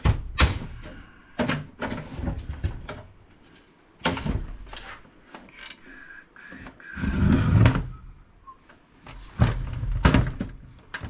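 Knocks, clunks and rattles of a desktop computer's steel case and plastic side panel being handled and tugged while being taken apart, with a longer rattle about seven seconds in.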